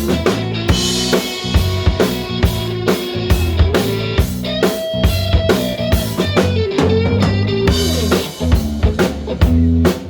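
Rock band playing an instrumental passage: a drum kit keeps a steady beat under bass and electric guitar, with a held lead guitar line that bends in pitch near the middle.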